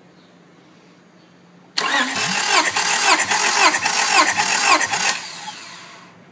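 Honda F23A inline-four engine cranked over by its starter motor for a compression test: a loud, rhythmic whirring with a beat about twice a second. It starts suddenly about two seconds in and runs for about three seconds before winding down.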